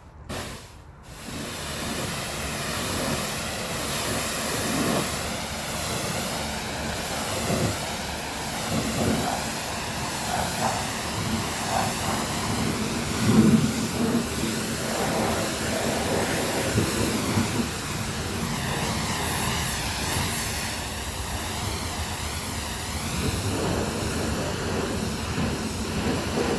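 Continuous hiss of a pressure-washer jet spraying water against a truck's bodywork, rising and falling irregularly as the spray moves, loudest about halfway through.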